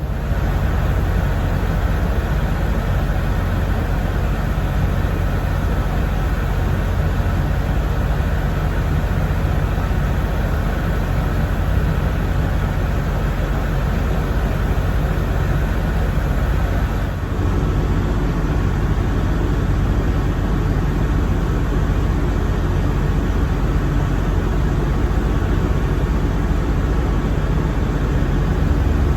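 Vehicle engines idling: a steady low rumble with a faint hum, shifting slightly about seventeen seconds in.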